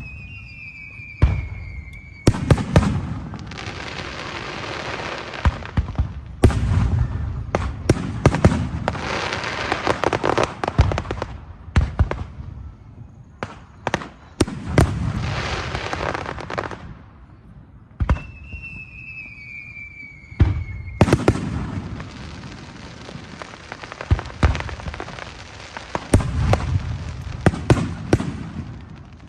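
Aerial fireworks going off in quick succession: sharp bangs with long stretches of dense crackling and hissing between them, and a high whistling tone that falls slightly in pitch, heard twice.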